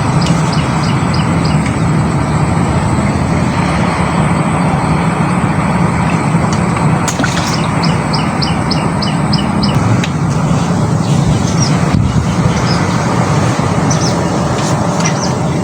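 A steady low rumble like a motor or passing traffic, with a bird's rapid repeated chirps, about five a second, heard in a run at the start and again about halfway through.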